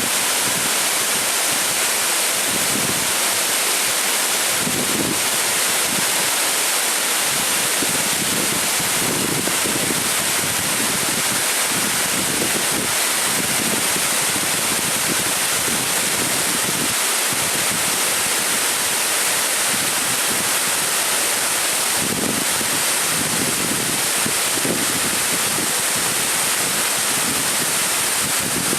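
A waterfall rushing steadily, a dense unbroken hiss of falling water, with now and then low wind buffeting on the microphone.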